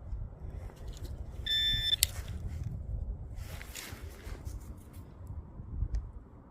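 A metal detector gives one steady electronic beep lasting about half a second, about one and a half seconds in, ending in a sharp click. A short rustle follows near the middle, over a steady low rumble.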